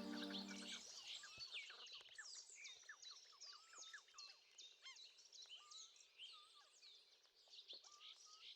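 Faint chorus of many small birds chirping and twittering at once in quick, overlapping calls. Soft music fades out about a second in.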